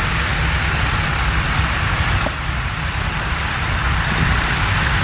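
Tractor engine running steadily, with a constant low throb under a broad hiss.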